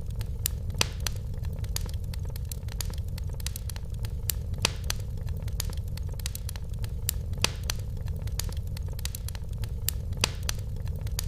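Wood fire burning in a fireplace: a steady low rumble with irregular sharp crackles and pops, several of them louder than the rest.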